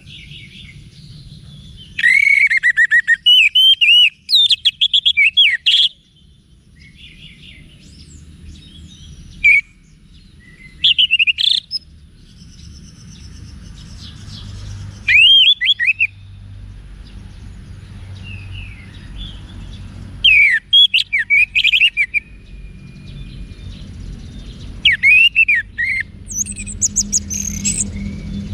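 Orange-headed thrush singing loud, quick, varied phrases of whistles and trills. The phrases come in spurts of one to four seconds with pauses between them, over a faint low hum.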